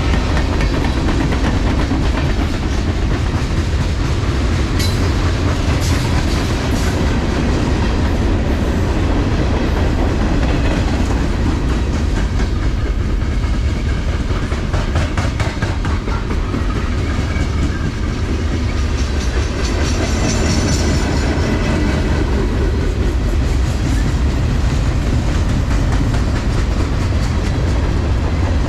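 A train passing on the main line: a steady, loud rumble of wheels on rail, with rapid clicking as the wheels cross rail joints.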